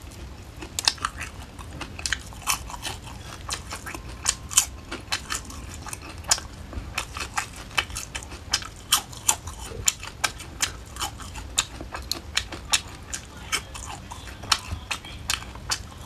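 Close-miked crunching of crispy fried grasshoppers being bitten and chewed: a steady run of sharp, brittle crackles, several a second.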